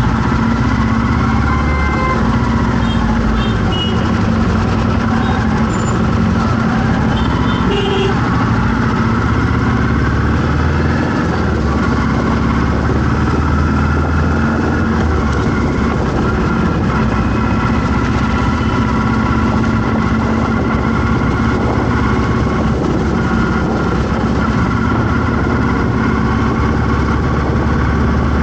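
Road traffic with vehicle engines idling and running steadily.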